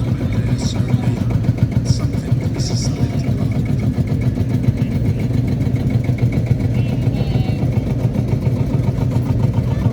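Tractor engine running steadily at a low idle, a deep, even drone with a fast pulse, and a few light clicks over it.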